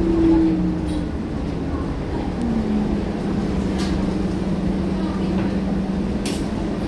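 Scania K230UB city bus running under way, its five-cylinder diesel and driveline giving a steady low hum with a pitched drone; the drone drops away about a second in and a new tone slides in and settles about a second and a half later. Two short sharp rattles come through later on.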